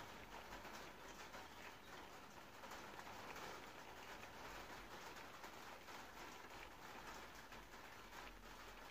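Faint patter of light rain on a car's windscreen and roof, heard from inside the car.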